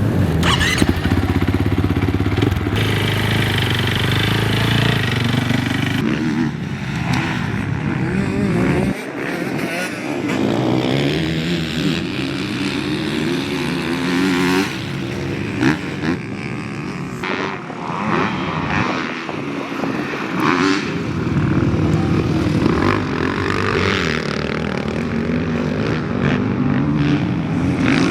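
Motocross race bike engine being ridden, its revs rising and falling again and again. For the first few seconds it holds a steadier note before the repeated revving starts.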